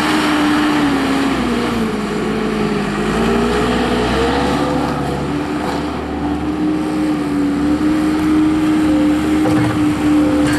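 Case 450 skid steer loader's turbocharged Cummins diesel engine running steadily. Its speed dips about two seconds in and comes back up a couple of seconds later.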